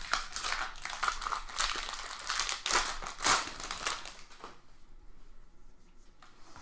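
Foil wrapper of a trading-card pack crinkling as the pack is opened, dense crackling for about four and a half seconds before it dies down to a few faint rustles.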